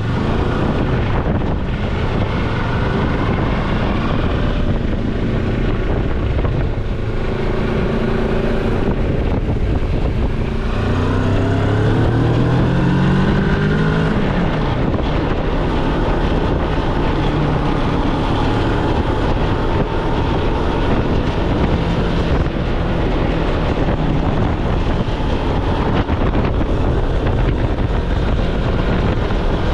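Moto Morini X-Cape's 649 cc parallel-twin engine pulling while the bike is ridden, with heavy wind rush on the microphone. About ten seconds in the engine note rises under acceleration, then drops at a gear change, and the bike settles into a steady cruise.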